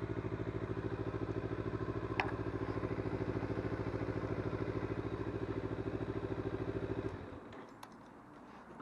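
Kawasaki Z250's parallel-twin engine idling at a steady, even beat, with a sharp click about two seconds in. The engine is switched off about seven seconds in, leaving a few small clicks.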